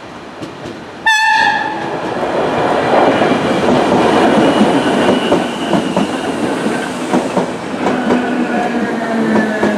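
Irish Rail 8300 class DART electric train sounding a short horn blast about a second in, then running past close by, its wheels clattering over the rails with repeated clicks. Near the end a whine falls in pitch.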